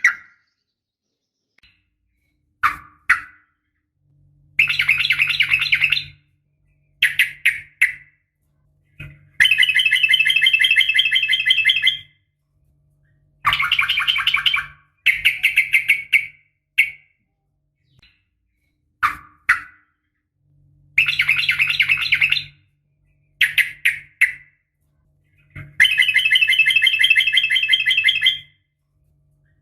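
Yellow-vented bulbul (trucukan) calling: long, rapid rattling trills of about two to three seconds each, alternating with short single chirps and separated by silent gaps. This is the long rolling call (ropel panjang) used as a lure to set other trucukan singing.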